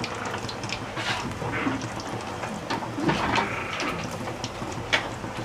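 Chicken leg pieces sizzling as they fry in hot oil, with scattered crackles and one sharper pop near the end.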